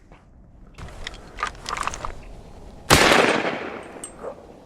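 A single shotgun shot from a Beretta A350 Xtrema semi-automatic about three seconds in: a sharp report with a trailing tail that fades over about a second.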